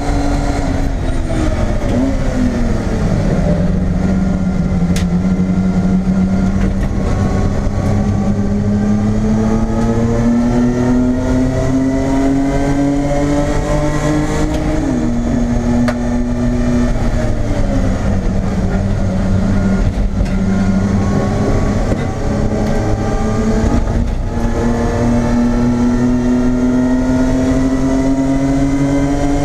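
BMW E30 race car's engine under hard use, heard inside the stripped-out cabin: its pitch falls twice as the revs drop, climbs steadily under acceleration in between, and steps down sharply once at a gear change about halfway through.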